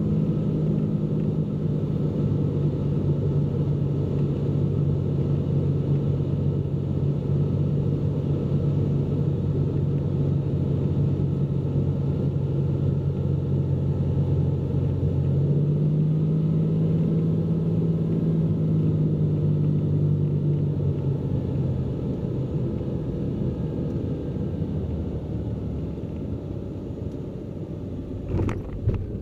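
Cessna P210N's turbocharged six-cylinder engine and propeller droning steadily in the cockpit on final approach with the gear down. The drone rises slightly in pitch partway through, then grows quieter as power comes back for the landing. There is a sharp click near the end.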